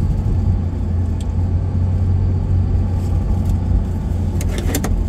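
Steady low road and engine rumble heard inside a moving car's cabin. A few sharp clicks come near the end.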